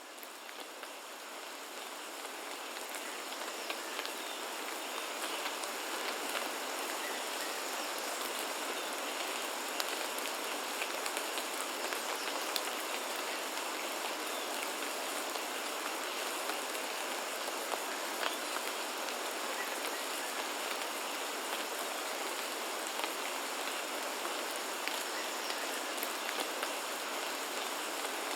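Steady rain, thick with small drop ticks, fading in over the first few seconds and then holding even. A faint steady high-pitched tone runs through it.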